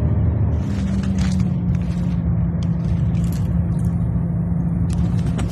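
Vehicle engine drone heard from inside the cab: a steady low rumble with a humming tone that drops slightly about a second and a half in. A few faint short crackles sound over it.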